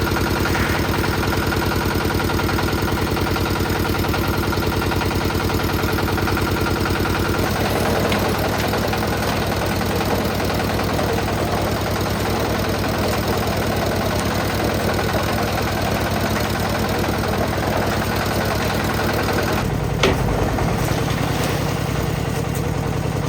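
Engine of a concrete mixer running steadily. A rougher, churning noise joins about a third of the way in, and a single sharp knock comes near the end as the engine note shifts.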